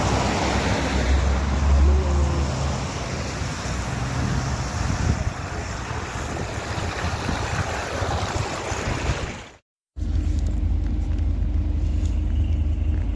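PAZ-4234 bus on the move: road and engine noise with a low rumble, then, after a sudden cut about ten seconds in, a steady low engine drone as heard inside the bus.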